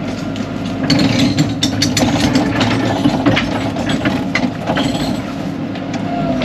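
Excavator diesel engine running steadily, with a quick string of metal clanks and knocks from about a second in as the machine moves.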